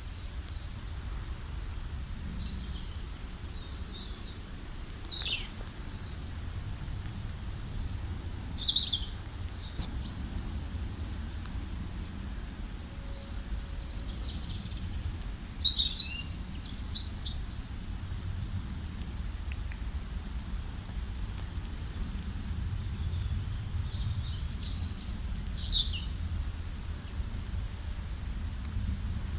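Wild birds calling and chirping: many short, high, sweeping notes from several birds, busiest about eight seconds in, around sixteen to eighteen seconds, and near twenty-five seconds, over a steady low outdoor rumble.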